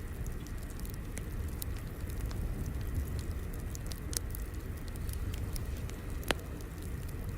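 Fire crackling: a steady low rumble of flames with scattered sharp pops, one louder pop about six seconds in.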